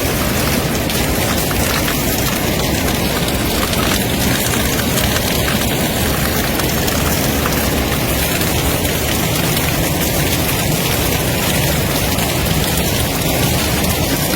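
Steady heavy rain, a loud, even hiss.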